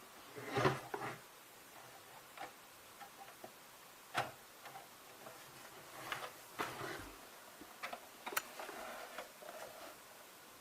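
A dozen or so irregular light clicks and taps, the loudest about a second in and about four seconds in, over a faint steady background.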